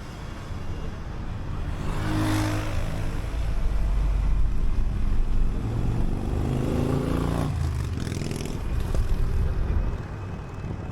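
City bus engine running under load as the bus drives, with a low rumble that swells twice as it pulls. A brief hiss comes about two seconds in.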